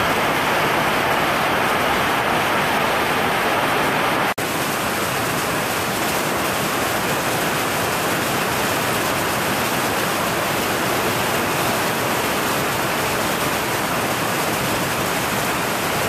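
Heavy rain pouring steadily, an even dense hiss. About four seconds in the sound cuts out for an instant, then resumes a little brighter.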